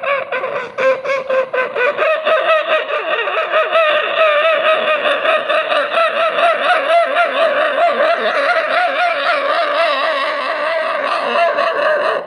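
A person imitating a dog with their voice, the dog approaching from a distance: a continuous warbling cry that wavers up and down a few times a second and grows stronger about two seconds in.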